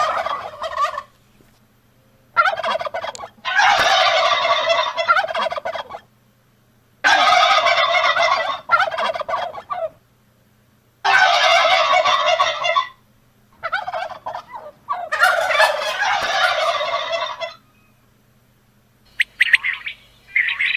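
Domestic turkey tom gobbling loudly, a series of about six rattling gobbles, each a second or two long, with short pauses between. Near the end, a different bird's short, high chirps begin.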